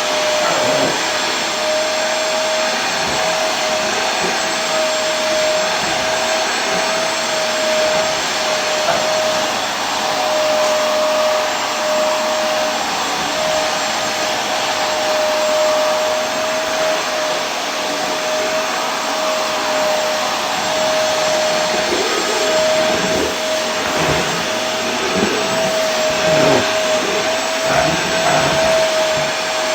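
Vacuum cleaner running steadily, a dense rushing noise with a constant high hum.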